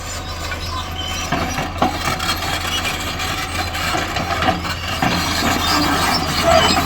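Heavy diesel engine of earthmoving machinery running steadily with a low hum, with scattered knocks and scraping from the loading work.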